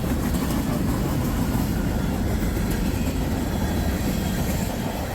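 Freight train of tank cars rolling past at close range: a steady rumble of steel wheels on the rails.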